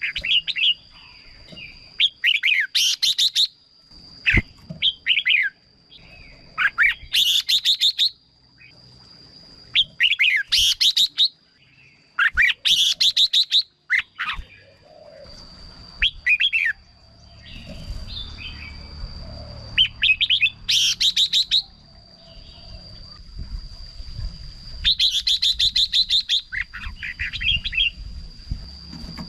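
Red-whiskered bulbul singing: short, bright, rapid phrases repeated every few seconds, with a thin steady high whine under them.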